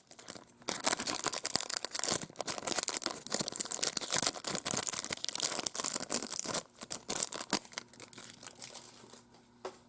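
A plastic trading-card pack wrapper being torn open and crinkled by hand, a dense crackling for about six seconds, then fainter, sparser rustling as the cards are handled.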